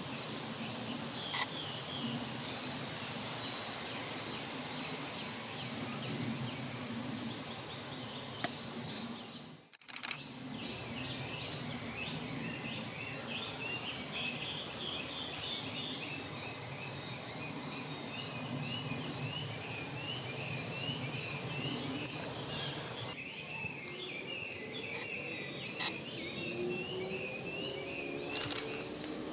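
Woodland ambience with songbirds singing repeated chirping phrases through most of the second half, and a brief break in the sound about ten seconds in.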